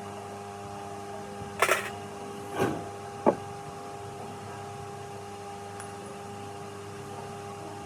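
A steady machine hum, with three sharp knocks or clinks about one and a half, two and a half, and three seconds in.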